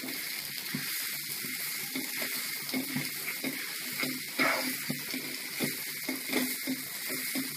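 Mashed potato and onion stuffing sizzling in hot oil in a wok, stirred and scraped with a wooden spatula in repeated strokes over a steady hiss.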